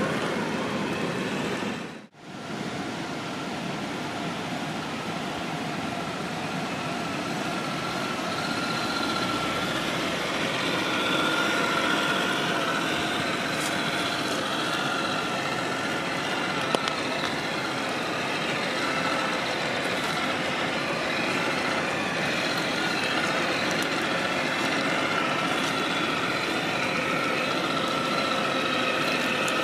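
Traxxas TRX-4 Bronco RC crawler's brushed electric motor and geared drivetrain whining steadily as it crawls, the whine's pitch drifting up and down with throttle. The sound cuts out sharply for a moment about two seconds in.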